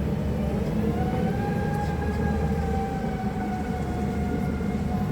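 Electric stand-up forklift at work: a steady low hum with a motor whine that sets in about a second in, rising slightly and then easing back down.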